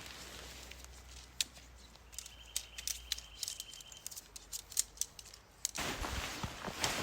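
Camping gear being handled and packed away by hand: a run of sharp clicks and clinks, with a brief high whistle about two seconds in and a louder rustle from about six seconds in.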